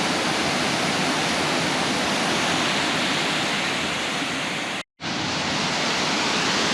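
Waterfall in high flow after heavy rain: a steady, loud rush of falling water, cut by a split-second dropout about five seconds in.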